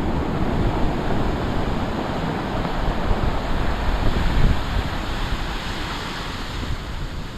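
Large storm waves breaking and washing in, a steady roar of surf with wind buffeting the microphone. The rush is loudest at first and eases gradually toward the end.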